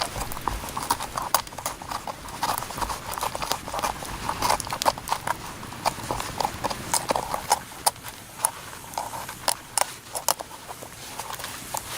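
Irregular run of hollow knocks and clicks, several a second.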